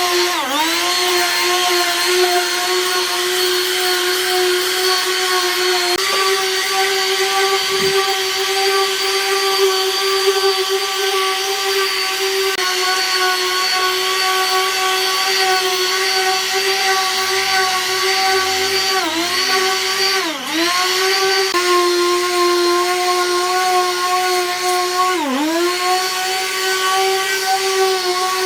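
Handheld electric power tool running at a steady speed with a high motor whine. Its pitch dips sharply and recovers a few times in the second half.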